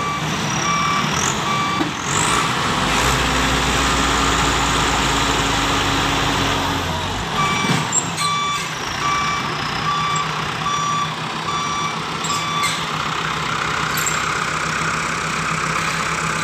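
Truck's reversing alarm sounding a regular series of beeps, about three every two seconds, for the first two seconds and again from about eight to twelve and a half seconds in, over a diesel engine running under load, which swells into a deep drone between about three and seven seconds in.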